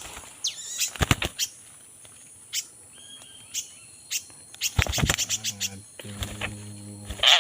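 A small bird known locally as pak bandir giving scattered sharp chirps, a falling whistle and a few short high whistled notes. A low steady hum joins near the end.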